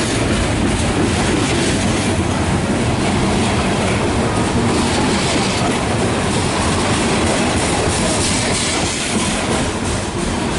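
Loaded coal hopper cars of a freight train rolling past, steady wheel and rail noise with clickety-clack over the rail joints.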